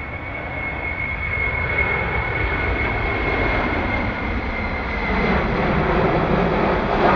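Airplane engine noise: a steady roar with a high whine that fades out about halfway through, while the overall sound grows slightly louder.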